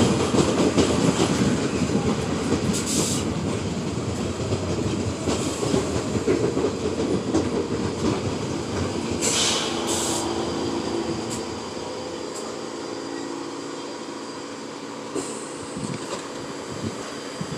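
R46 subway train running along the track, its sound fading steadily as it moves away, with a few short high-pitched squeals from the wheels along the way.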